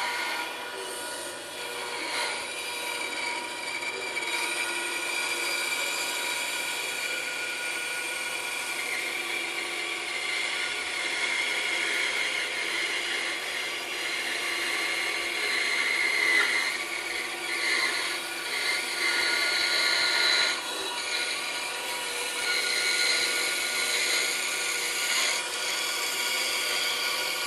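Bandsaw running with its blade cutting through a 4x4 wooden block: a steady machine whine under a cutting noise that swells and eases as the cut goes on.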